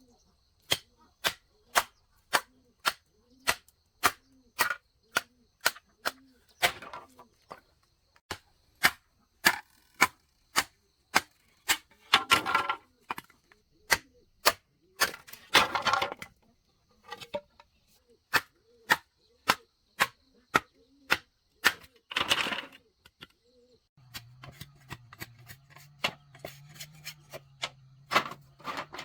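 Steady series of sharp tool blows on wood or bamboo, about three every two seconds, broken three times by longer scraping or rustling noises. A low hum comes in about three quarters of the way through.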